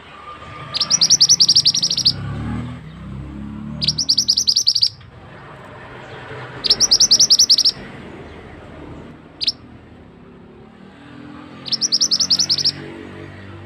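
Mantenan songbird singing: four loud bursts of rapid repeated high notes, each about a second long, with a single short chirp between the third and fourth burst, over a steady background of running stream water.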